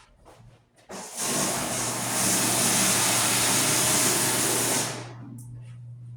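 A motorised appliance starts about a second in with a loud rushing hiss over a steady low hum. The hiss cuts off about four seconds later while the hum keeps going.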